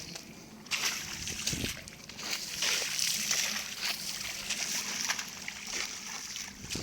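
Standing rainwater splashing and sloshing as it is waded through and kicked, in repeated irregular splashes.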